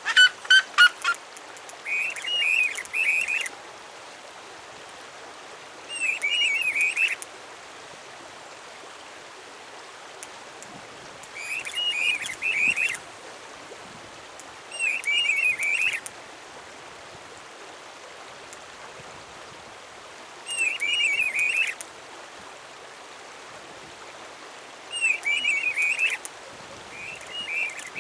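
A wild Brazilian songbird singing short, warbled phrases of a second or so, repeated about every four seconds, over a steady background of running water. In the opening second there is a quick series of rapid repeated notes.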